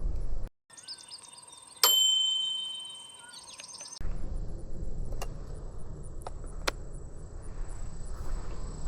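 Short bird chirps with a single bell-like ding that rings and fades, followed by forest ambience with a faint insect trill and a few sharp clicks.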